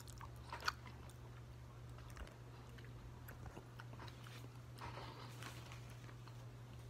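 Faint close-up chewing of a mouthful of black-eyed peas and okra, with a couple of short clicks in the first second, over a low steady hum.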